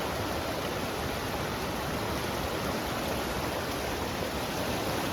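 Steady rushing of Tumalo Creek's fast water just above Tumalo Falls, an even, unbroken hiss.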